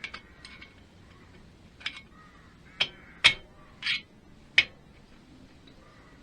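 Half a dozen sharp metallic clicks and clinks at irregular intervals, the loudest about three seconds in: hand tools and engine parts knocking against metal while a motorcycle engine's top end is being reassembled.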